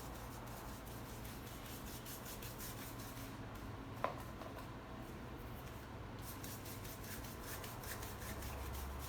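Paintbrush rubbing back and forth over the painting surface in quick strokes, smoothing and blending the wet paint. The strokes pause for a few seconds in the middle, and a brief short tone sounds about four seconds in, over a low steady hum.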